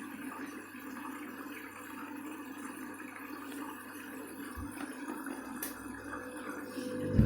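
Candy washing machine filling with water: a steady rush of water into the drum over a low steady hum, with a couple of faint clicks.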